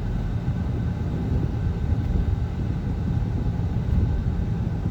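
Steady road and engine noise heard inside a moving car's cabin, a low even rumble with no distinct events.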